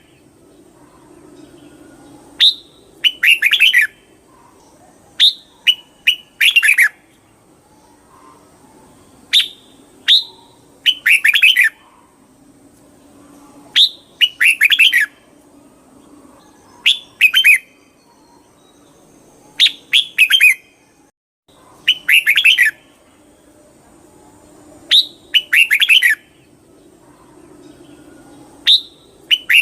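Red-whiskered bulbul singing: short, bright warbled phrases of a few quick notes, repeated about every three seconds.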